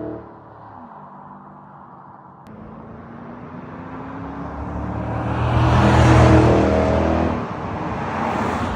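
2006 Ford Mustang GT's 4.6-litre three-valve V8 running through a pair of Flowmaster FlowFX mufflers, its exhaust note building in loudness to a peak about six seconds in, then easing off.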